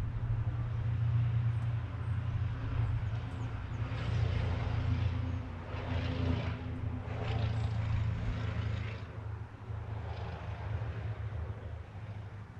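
Low, steady engine drone from a distant vehicle or aircraft, with a rushing noise that swells and fades between about four and nine seconds in.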